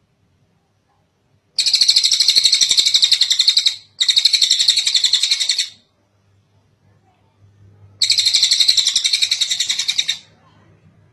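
Tengek cililin bird singing three long, high-pitched rapid trills of about two seconds each. The second follows the first almost without a break, and the third comes after a pause of a couple of seconds.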